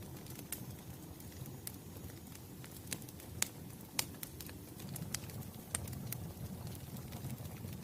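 Wood fire burning with a low steady rumble and sharp, irregular crackles and pops, the loudest a little past three and four seconds in.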